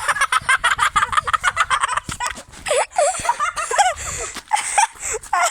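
Pet bird calling close up: a fast run of repeated short notes for about two seconds, then a string of separate short calls.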